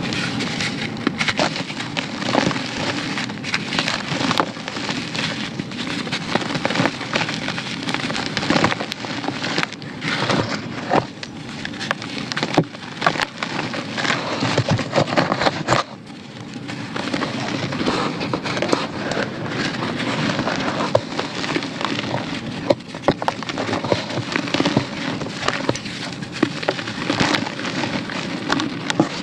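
Dry, crunchy cake crumbles being crushed, a dense run of crackling and snapping with a brief lull about sixteen seconds in.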